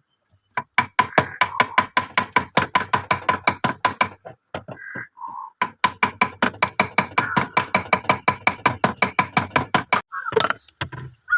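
A tool repeatedly striking the thick ice built up inside a freezer compartment, chipping it away in fast, even blows of about six a second with a ringing note under them. The strikes pause briefly about halfway, then run on for several seconds more.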